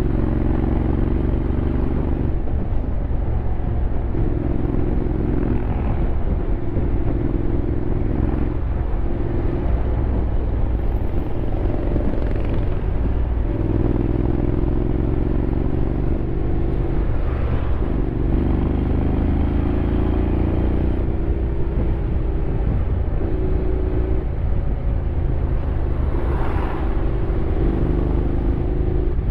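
Honda X-ADV 750's parallel-twin engine running while riding, with the engine note climbing and dropping back several times over a steady low rumble of wind and road.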